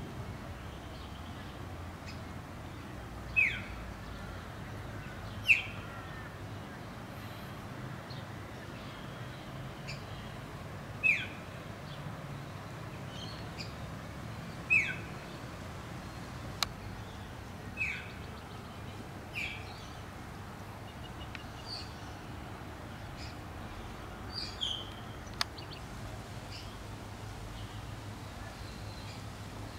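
A bird calling repeatedly: short, quickly falling calls every few seconds over a steady outdoor hiss, with a couple of faint sharp clicks.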